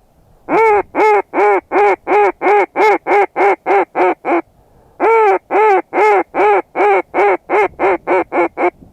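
Mallard duck call blown by a hunter: two runs of quacks, each starting with longer quacks and speeding up into shorter, quicker ones. It is the calling used to lure ducks within range.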